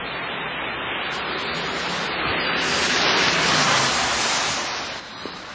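Steady hiss of rain and wet street noise, swelling louder for a couple of seconds before dropping abruptly near the end.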